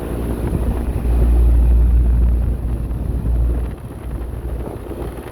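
Wind buffeting the microphone in a low rumble, strongest from about a second in until it eases near four seconds, over the steady running of a Carrier rooftop package air-conditioning unit.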